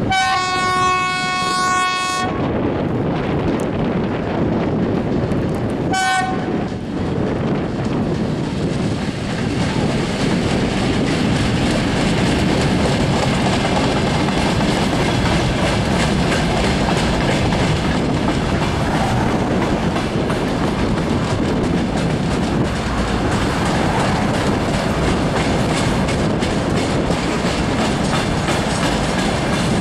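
A train sounding a long horn blast of about two seconds, then a short second toot about six seconds in, followed by the steady rumble and clickety-clack of the train running past.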